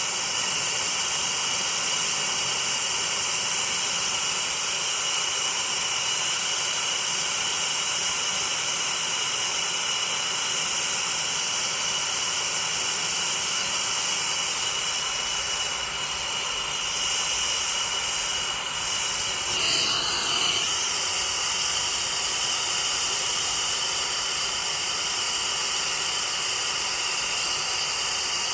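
Oxy-acetylene torch flame hissing steadily as it heats an air-conditioner pipe joint to a glow for brazing, with a short flutter in the hiss about twenty seconds in.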